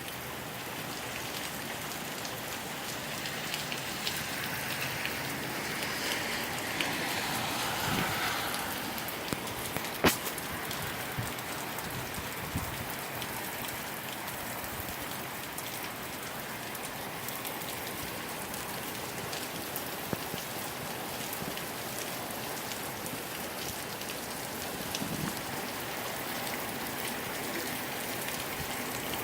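Moderate rain falling steadily, with scattered drop taps and one sharp tap about ten seconds in.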